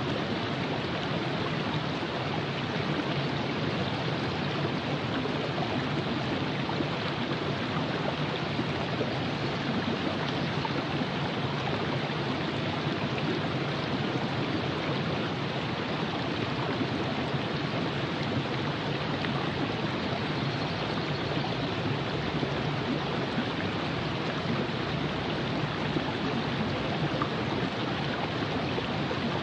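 Virgin River flowing in a steady, even rush of water over its bed.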